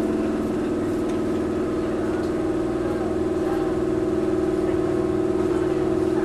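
Steady hum inside a Toyohashi Railway 1800-series (ex-Tokyu 7200) electric car standing at a station: several level tones from the onboard equipment and running air conditioning over a low rumble.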